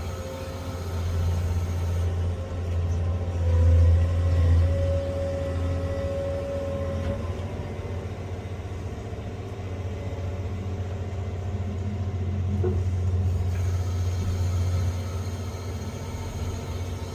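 Cat 385C excavator's diesel engine and hydraulics working under load, heard from inside the cab: a steady low rumble that swells and peaks about four seconds in, with a faint whine as it pulls harder.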